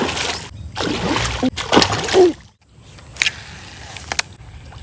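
Water splashing and sloshing in bursts, cutting off abruptly about two and a half seconds in. A few sharp clicks follow.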